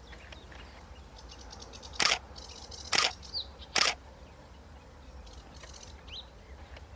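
Camera shutter firing three times in quick short bursts, about a second apart, between faint high bird chirps and chattering.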